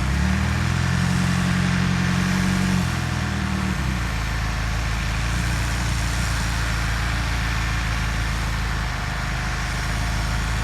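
Tractor diesel engine running steadily. About four seconds in its note changes and settles lower, and it runs on evenly after that.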